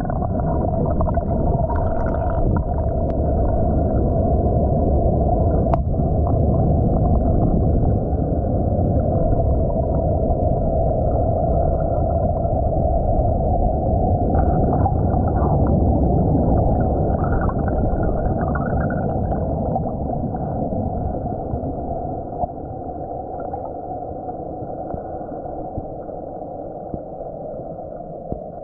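Muffled, steady rushing and bubbling of river water, recorded with the camera under water, with one faint knock about six seconds in. The sound grows gradually quieter over the last several seconds.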